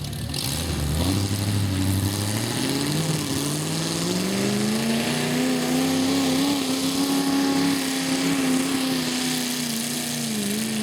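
A garden tractor's engine revving up over a few seconds and then held at high revs, easing off slightly near the end.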